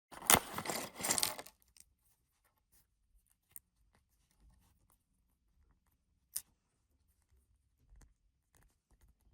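A short burst of tearing and crinkling, then a few faint, widely spaced clicks.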